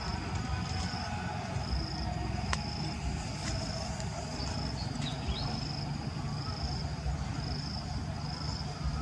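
An insect chirping in short, evenly spaced high-pitched bursts, a little under one a second, over a low background rumble, with one sharp click about two and a half seconds in.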